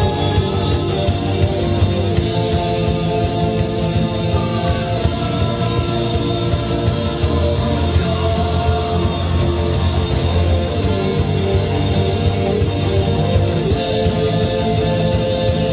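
Amateur rock band playing a song live: drum kit, bass guitar and electric guitar playing together without a break.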